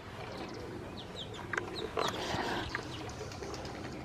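Birds calling in short chirps, with a couple of sharp knocks about one and a half and two seconds in.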